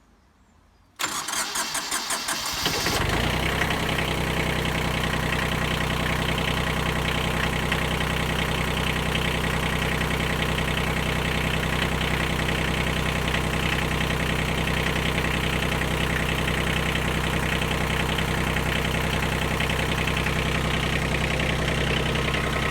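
Kubota B20 tractor's diesel engine cranked over on its starter for about two seconds, then catching and settling into a steady idle: a start right after the fuel system has been bled of air following a fuel filter change.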